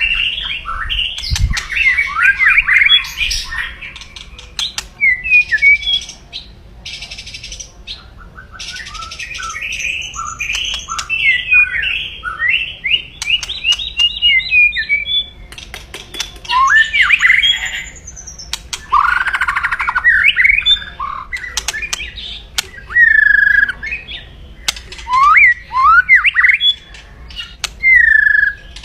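White-rumped shama (murai batu) singing a loud, aggressive song of harsh rattling 'kretekan' notes mixed with clicks and sharp whistled glides, with only brief pauses. This is the fighting song of a bird in top form, meant to rouse rival males.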